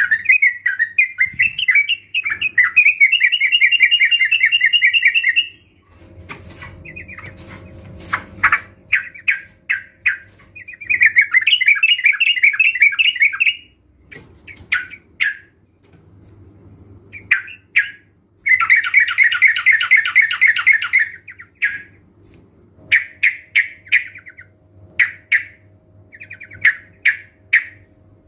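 Sooty-headed bulbuls calling, a recording of several birds kept together: bursts of fast chattering notes lasting one to three seconds, separated by short single calls.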